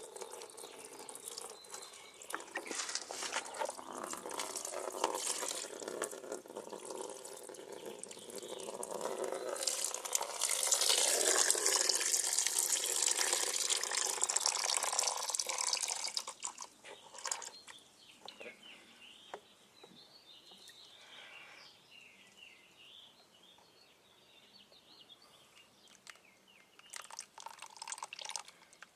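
Engine coolant draining out of a Yamaha YZ250F dirt bike and splashing into a catch pan, loudest from about ten to sixteen seconds in, then dropping to faint dribbles and drips.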